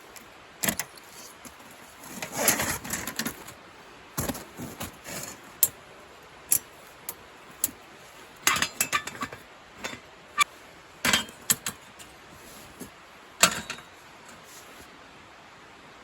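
Camping gear being handled: scattered sharp clicks, knocks and metal clinks, with short bursts of rustling.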